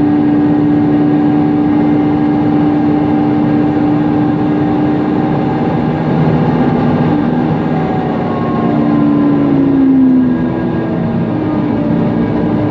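Onboard sound of a Mercedes-Benz Conecto NGT city bus under way: its rear CNG engine and cooling fan run with a loud, steady whine over a low rumble. The whine falls in pitch during the last few seconds.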